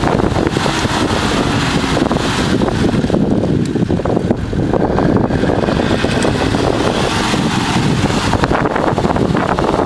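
Nissan Patrol 4WD engine straining as it tries to drive itself and a camper trailer out of deep mud, bogged with wheels churning. Wind buffets the microphone throughout.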